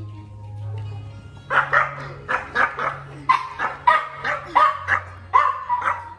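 Dog barking repeatedly, about three barks a second, starting about a second and a half in, over background music.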